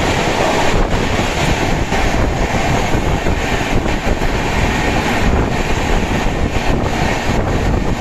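Express train running at speed: a loud, steady rumble of the coach's wheels on the rails.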